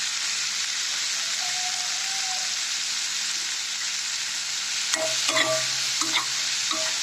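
Diced potatoes frying in hot oil in a kadai: a steady sizzle. From about five seconds in, a spoon stirring scrapes and knocks against the pan several times.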